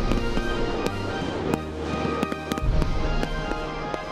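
Music with a bass line, with a dozen or so sharp bangs and crackles from bursting fireworks shells at irregular intervals.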